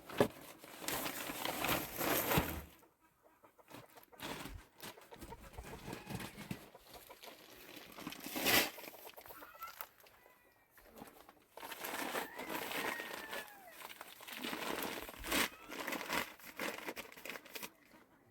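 Chickens clucking, with faint short calls between several loud stretches of rustling noise, the loudest about halfway through.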